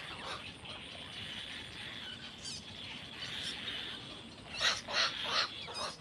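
Birds calling over a steady high-pitched background chorus, with three short, loud calls in quick succession about four and a half to five and a half seconds in.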